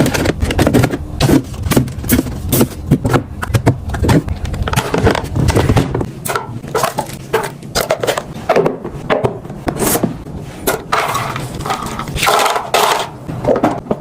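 Quick, irregular clicks, knocks and scrapes of packaged food and plastic containers being handled and set down while a refrigerator is stocked.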